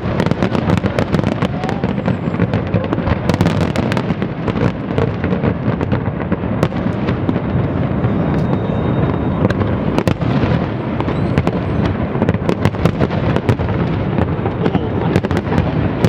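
A dense fireworks display: a continuous rumble of overlapping bursts, with many sharp bangs and crackles over it.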